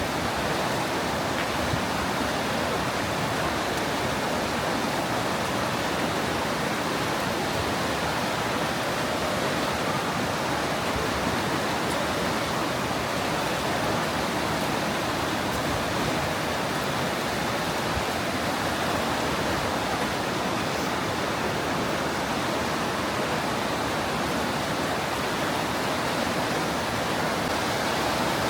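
Fast mountain river rushing through a narrow limestone gorge: a steady, loud rush of white water.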